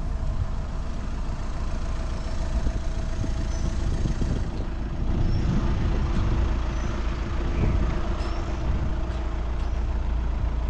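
Volkswagen Passat estate's engine idling steadily, with a low rumble throughout that gets a little louder about halfway through.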